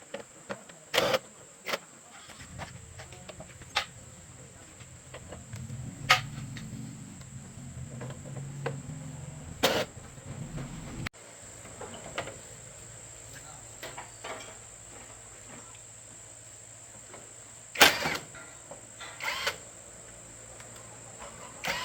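Work sounds of a machine repair: scattered sharp metallic clicks and knocks over a low steady hum, with a thin high whine throughout. The sound changes abruptly about eleven seconds in, and the loudest knock comes near the end.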